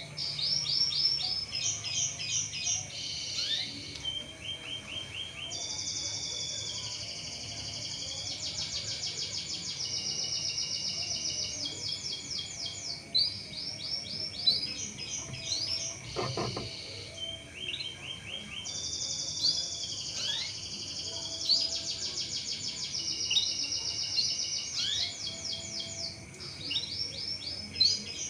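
Domestic canary singing a long, continuous song of rapid rolling trills. The trills switch between note types and speeds every second or two. About halfway through there is a brief break with a low thump.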